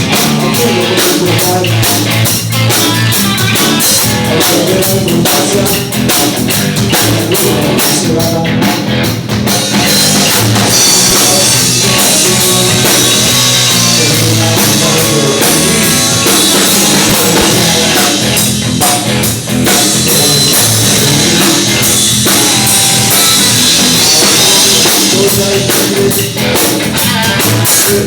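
Rock and roll band playing a loud, up-tempo number, with drum kit and guitar.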